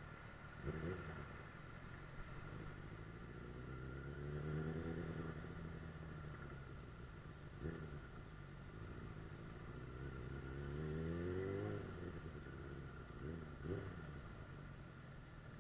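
Suzuki GSF 600 Bandit S inline-four engine under way, its revs climbing twice as the bike accelerates and dropping back, with a few short knocks in between.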